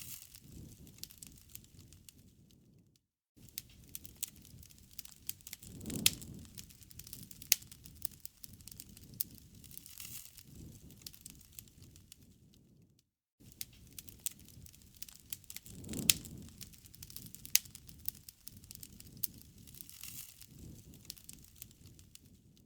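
Wood fire crackling and popping, with frequent sharp snaps and a louder pop about 6 s and 16 s in. The sound drops out to silence briefly about 3 s and 13 s in, repeating the same stretch of crackling.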